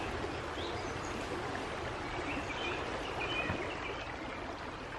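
Forest stream of water flowing steadily.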